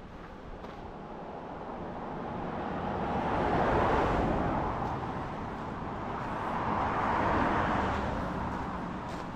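Two vehicles pass by on the road, one after the other. The engine and tyre noise of each swells and fades: the first is loudest about four seconds in, the second a few seconds later.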